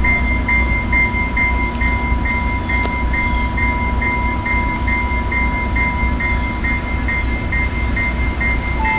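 Trinity Railway Express diesel commuter train idling at the platform, a low steady rumble, with a bell ringing evenly a little over twice a second over a steady high whine as it prepares to depart.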